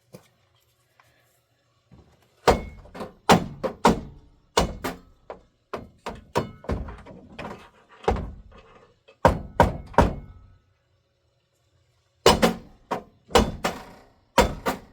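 Heater blower motor of a 2008 GMC Savana van being beaten to free it up: a run of loud, irregular thunks, roughly two a second, a pause of about two seconds, then another run near the end. The motor has quit working and is stiff, with debris found inside.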